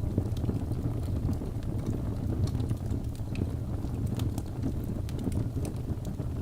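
Birch logs burning in a fireplace: a steady low rumble of the flames with frequent small, sharp crackles and pops scattered throughout.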